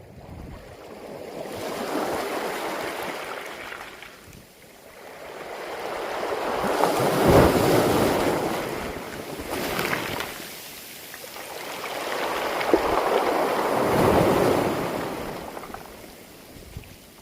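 Waves surging up and washing back over a beach of smooth round pebbles (mongdol), the stones rattling in the wash. The sound swells and falls in about four surges, the loudest about seven seconds in.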